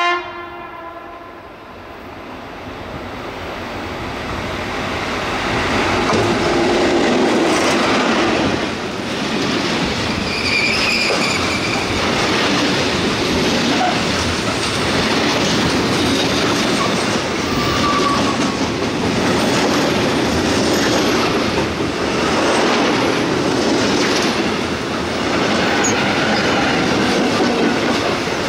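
DE24000-class diesel-electric locomotive DE24237 hauling a freight train. The end of a horn blast sounds right at the start. The train then grows louder as it nears and runs close past, with the rhythmic clickety-clack of wagon wheels over rail joints and a few brief high wheel squeals.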